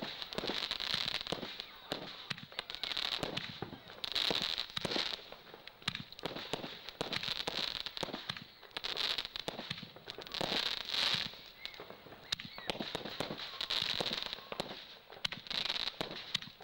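Fireworks going off in quick succession: a continuous run of bangs and pops, with bursts of crackling every second or two.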